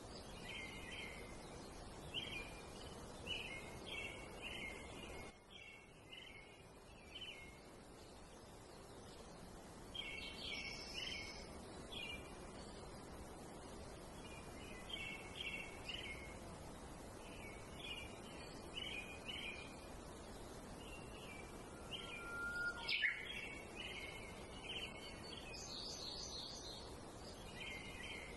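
Faint outdoor ambience of small birds chirping: short chirp phrases recurring every second or two over a steady background hiss. A single sharp click about five seconds before the end is the loudest moment.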